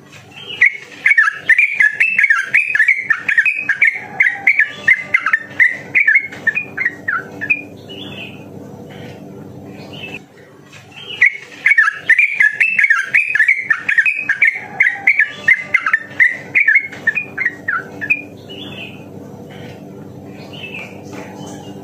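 Yellow-vented bulbul (trucukan) singing two long runs of rapid bubbling, chattering notes, each about seven seconds long, with short single calls between and after them.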